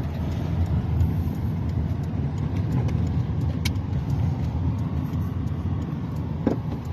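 Steady low rumble of a car being driven, engine and road noise heard from inside the cabin, with a few faint clicks.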